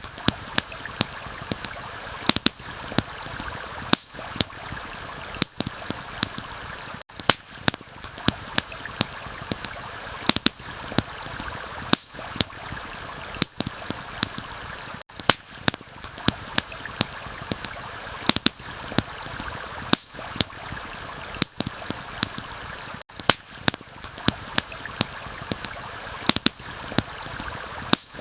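Steady rush of a flowing stream, with frequent sharp crackles and pops from a campfire over it.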